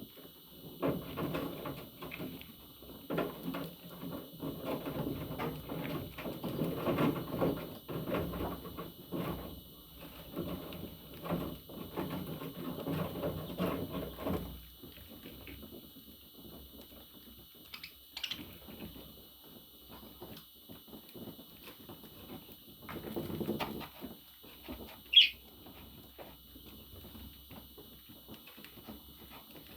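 Pet budgerigar: a stretch of busy scratching and shuffling with low chatter, then three short, sharp chirps spread over the second half, the middle one the loudest.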